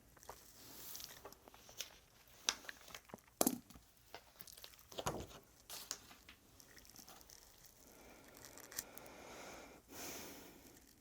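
Paper rustling and being handled, with scattered light taps and clicks and a longer stretch of soft rustling near the end.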